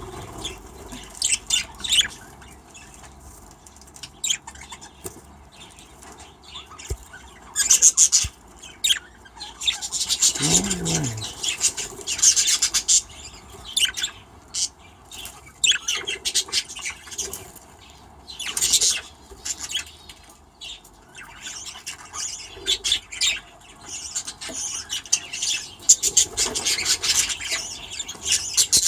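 Budgerigars chirping and chattering in short, irregular bursts, with a brief falling squawk about ten seconds in.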